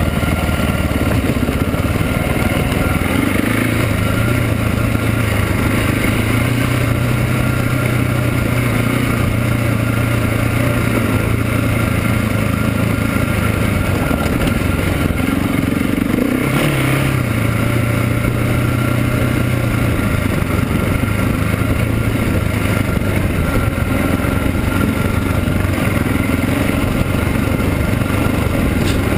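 KTM 690 SMC's single-cylinder engine running at low, fairly steady revs as the bike rolls down a dirt trail, with a brief rise in revs a little past halfway.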